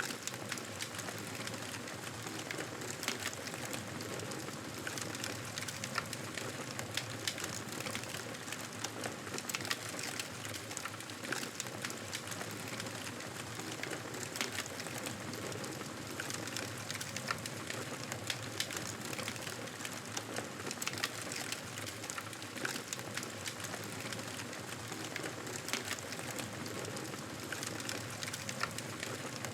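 Wood fire crackling in a fireplace: a steady hiss with frequent small irregular pops and snaps.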